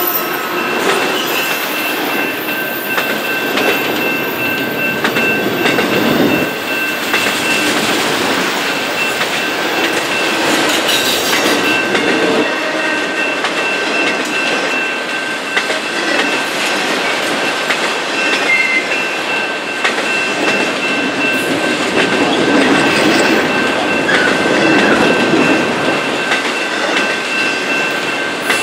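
Loaded autorack freight cars rolling past close by: a loud steady rumble and rattle of steel wheels on the rails, with scattered clicks and a thin, steady high whine running through it.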